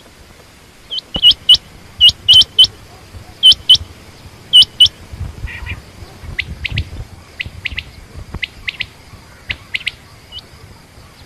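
Quail calling: loud, sharp whistled notes in quick pairs and triplets during the first half, followed by a run of fainter, thinner notes.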